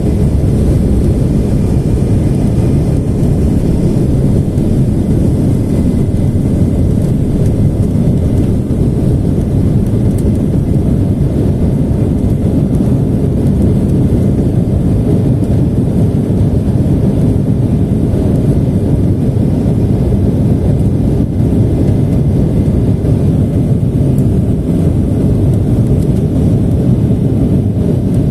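Embraer E175's twin turbofan engines at climb power, heard inside the passenger cabin as a loud, steady low rumble and rush of air during the initial climb after take-off.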